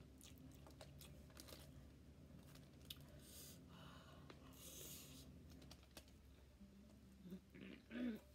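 Faint chewing and mouth clicks of someone eating stewed conch and rice. The sounds are scattered and soft, close to near silence.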